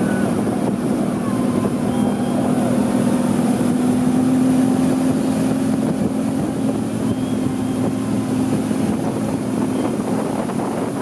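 Motorboat engine running steadily at speed, with a constant hum over water and wind noise.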